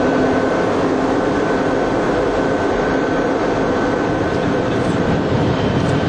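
TGV high-speed train running at high speed: a steady, loud rush of running noise with a faint, steady high whine over it.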